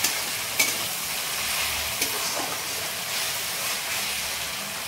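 Onions and ground masala paste sizzling steadily in oil in a metal kadai while being stirred with a flat metal dosa turner, with a sharp click of the turner against the pan about half a second in and a smaller one about two seconds in.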